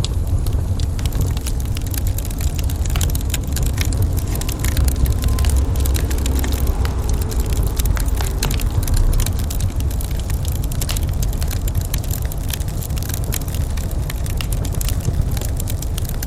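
Wood fire in a fireplace crackling, with a steady stream of small pops and snaps over a constant low rumble.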